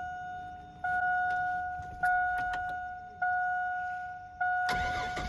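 A single electronic ding struck about every 1.2 seconds, four or five times, each note fading before the next, with a few light clicks between them.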